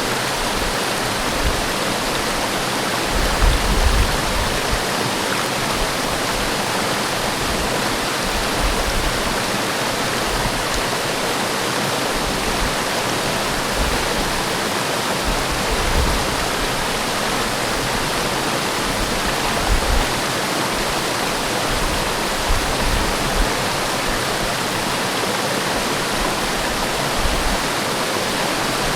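Waterfall in a forest: a steady, dense rush of falling water, with brief low rumbling swells every few seconds.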